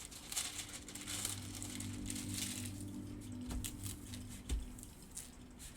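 Hands handling and unpacking a diamond painting kit's packaging: irregular crinkling, rustling and small clicks, over a faint steady hum.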